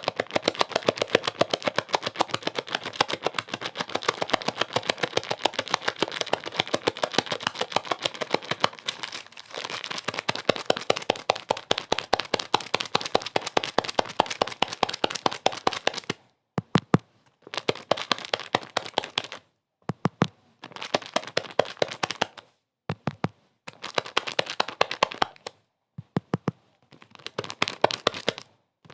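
Dense crackling made of rapid sharp clicks, steady for about sixteen seconds, then chopped into short bursts of a second or two separated by abrupt silent gaps.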